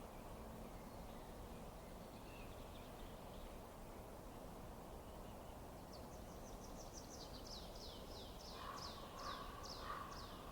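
A songbird singing a run of quick, high, downward-sliding notes, about three a second, starting a little past halfway, over a steady low background rush.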